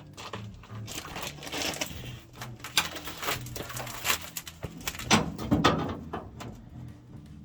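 Irregular clatter, knocks and scraping of hand work with tools and parts, loudest about five seconds in, over faint background music.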